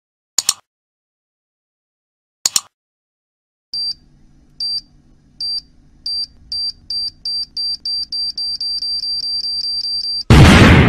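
Time-bomb countdown sound effect: two short clicks, then a high beep repeating faster and faster over about six seconds, cut off by a loud explosion near the end.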